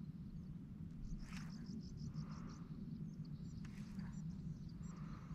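Faint outdoor ambience on open water: a steady low rumble under short, high bird-like chirps, with a quick trill of chirps about a second in.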